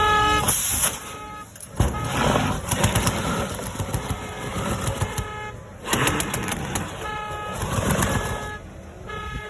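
Car horn honking in several blasts, the longest at the start and about five seconds in, with a short one near the end, over noisy street sound.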